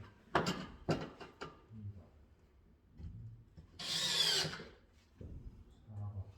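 A few sharp clicks and knocks, then about four seconds in a cordless drill-driver runs briefly for under a second, its pitch sweeping as it spins up and down.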